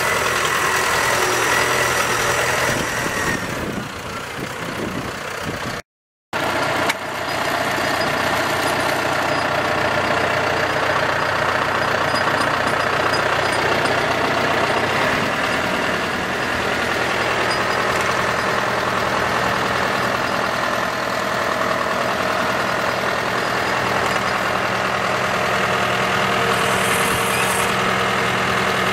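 Tractor engine running steadily, with a brief drop to silence about six seconds in.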